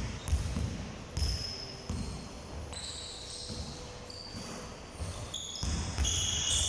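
Basketballs bouncing on a hard court in irregular thumps, with short high squeaks of sneakers on the floor.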